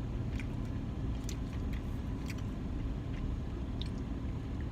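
Steady low hum of a car idling, heard from inside the cabin, with scattered small clicks of a plastic spoon against an ice-cream cup.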